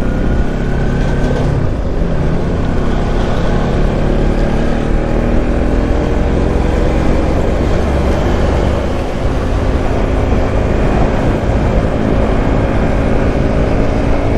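Motorcycle running along the road with heavy wind noise rumbling over the microphone; the engine's pitch climbs slowly through the second half as the bike speeds up.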